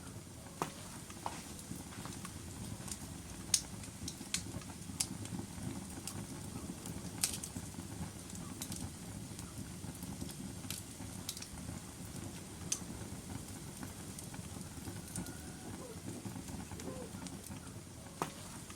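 Wood fire burning in a fireplace: a steady low rush from the flames with scattered sharp crackles and pops from the burning logs, the loudest pop about three and a half seconds in.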